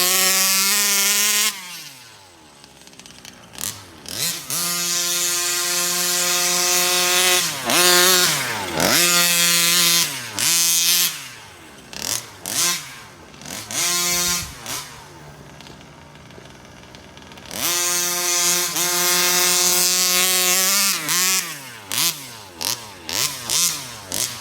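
Stock 36cc two-stroke engine of a Rovan FT360R RC truck at full throttle, holding a high steady pitch for several seconds at a time. Between runs it drops off to a quiet idle and climbs back, and near the end it gives a string of quick throttle blips.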